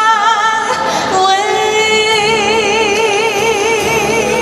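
A woman singing to a backing track. About a second in she moves to a new note and holds it with a wide, even vibrato to the end, over steady low accompaniment.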